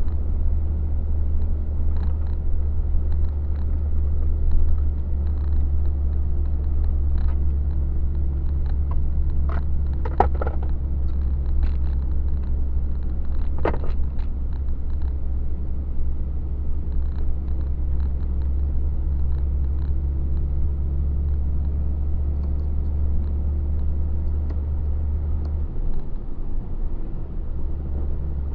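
Steady low rumble of a truck's engine and running gear heard from inside the cab while driving, with a few scattered clicks and knocks. The rumble dips briefly near the end.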